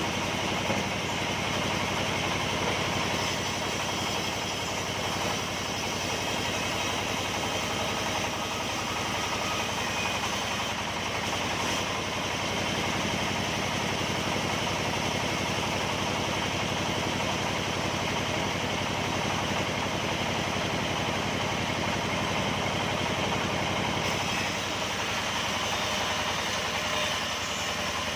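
Sawmill machinery running steadily, a constant engine-like drone with no breaks or changes.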